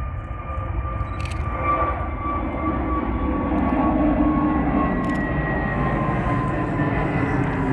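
Airliner engines heard from the ground as an aircraft passes, a low rumble with a whine that slowly falls in pitch. The sound grows louder over the first few seconds, then holds.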